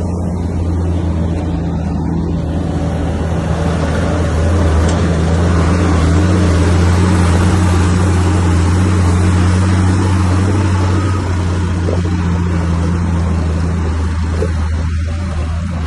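Heavy diesel engine of a bulldozer running steadily under load with a deep low hum, growing louder a few seconds in and easing slightly near the end.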